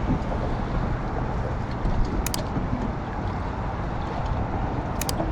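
Steady rushing noise of a strong tidal current and wind around a small fishing boat, with two short sharp clicks, about two and a half seconds apart.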